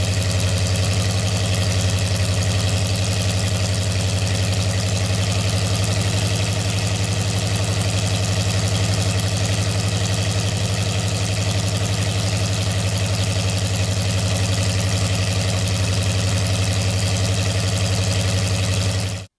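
Hot-rodded 1939 Ford V8-60 flathead V8 idling steadily on an engine test stand through open headers, freshly assembled and on its first run while its ignition timing is set. The sound cuts off suddenly near the end.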